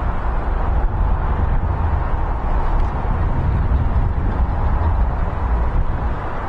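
Strong wind buffeting the microphone in deep, gusting rumbles, over the steady rushing noise of a jet airliner's engines.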